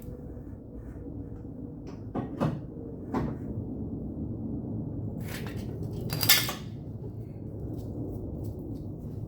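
Metal bodywork tools clinking and knocking against each other and the sheet metal: a few sharp knocks about two to three seconds in, a louder clatter just past the middle, then light ticks, over a steady low hum.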